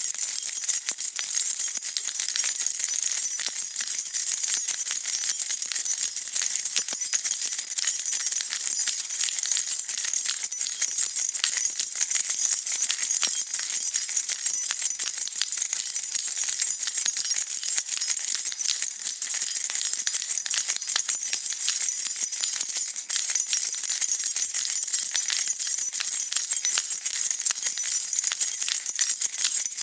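A bunch of metal keys shaken without pause: a steady, dense jingling.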